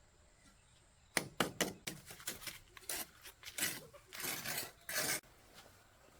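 A series of clinks and clatters of hard objects being handled, with some scraping in between. It starts about a second in and stops about a second before the end.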